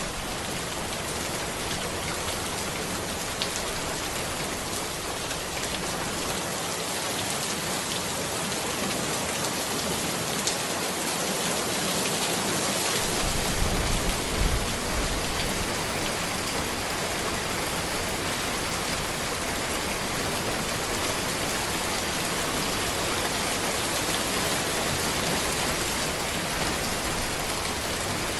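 Steady rain falling on a road and trees: a dense, even hiss of drops. A few brief low thumps come about halfway through.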